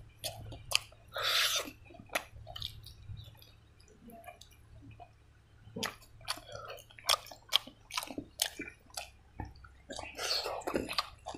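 Close-up wet chewing and lip smacks of a mouthful of rice and pork curry eaten by hand, in quick sharp clicks. It goes quieter about four seconds in, picks up again around six seconds, and is busiest near the end.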